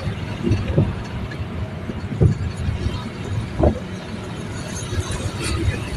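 A vehicle driving on a road: a steady low rumble of engine and road noise, with a few short thuds.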